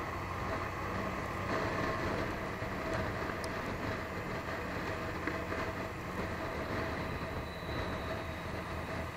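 Suzuki GZ150's single-cylinder four-stroke engine running steadily as the motorcycle rides along, under a steady rush of wind and road noise.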